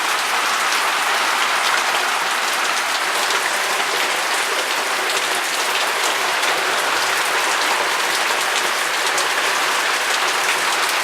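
Steady heavy rain falling and pattering on surfaces in a thunderstorm, a dense even hiss of drops with no thunder heard.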